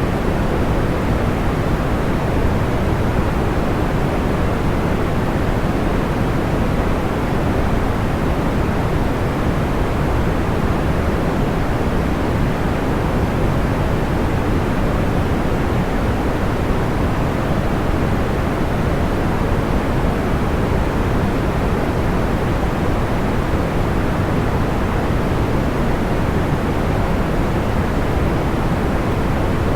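Steady, soft white noise for sleep, weighted toward the low end like pink or brown noise, with no distinct crackles or pops.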